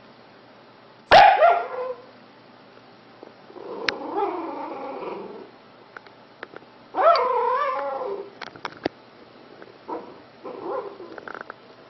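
A dog vocalizing in several drawn-out calls that waver in pitch. The loudest comes about a second in and another around seven seconds, with a longer lower one between them and shorter ones near the end. A few sharp clicks fall between the calls.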